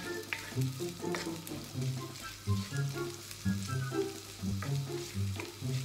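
Sliced onions sizzling in oil in a wok, with a wooden spatula scraping and knocking against the pan as they are stirred, over background music.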